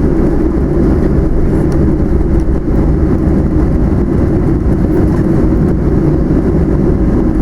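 Cabin noise inside a Boeing 737-700 rolling on the ground just after landing: a loud, steady low rumble of the jet.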